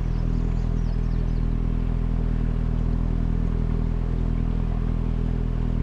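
Jet boat's engine running at a steady speed, a constant low hum with no change in pitch.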